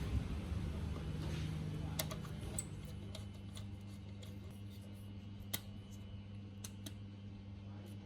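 Motorcycle starter motor, used as a bicycle drive motor, running with a steady low hum that slowly fades, with scattered light clicks.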